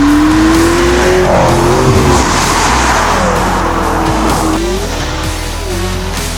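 McLaren 650S twin-turbo V8 under acceleration, its note climbing steadily until about a second in, then wavering up and down as the revs change, with music playing underneath.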